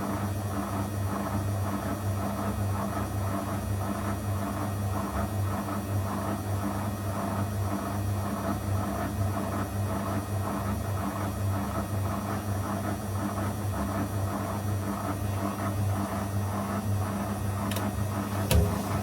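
Zanussi FL984CN washing machine running mid-wash: a steady motor hum with a regular pulsing as the drum turns, and a couple of sharp clicks near the end.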